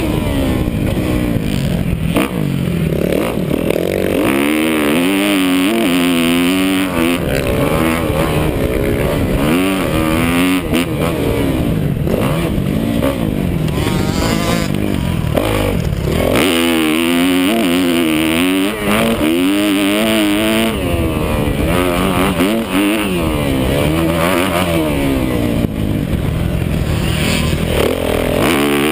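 Motocross motorcycle engine revving hard, its pitch climbing and falling again and again as the rider works the throttle and gears. About sixteen seconds in the revs drop briefly, then build again.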